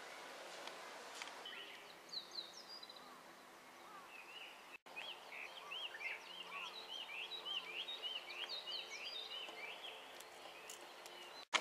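Small birds chirping: a busy run of quick, short, high chirps, starting about two seconds in. The sound cuts out for a moment twice.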